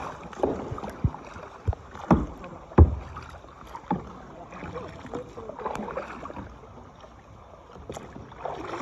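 Kayak paddling: paddle strokes splashing in the water, with sharp knocks of the paddle against the kayak, about one a second in the first few seconds and then sparser.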